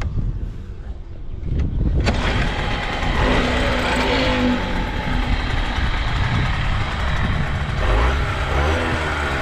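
Yamaha TDR50 two-stroke single-cylinder engine starting from cold, catching about two seconds in and then running. The seller says it runs with no abnormal noise.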